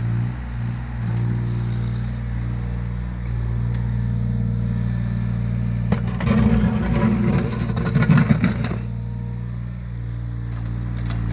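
Yanmar ViO17 mini excavator's diesel engine running steadily, with a louder stretch of crunching and clattering from about six to nine seconds in as the machine works material.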